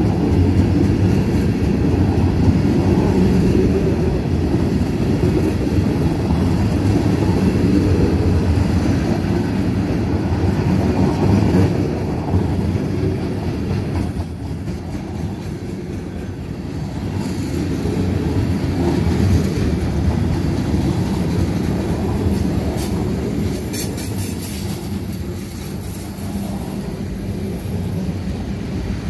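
Long freight train of loaded flatcars rolling past on the track: a steady low rumble of steel wheels on rail, a little quieter from about halfway.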